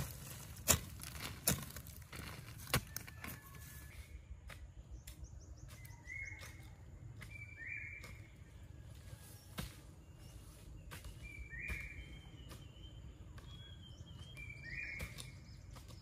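A few sharp knocks in the first three seconds, then birds calling with short, falling chirps every few seconds.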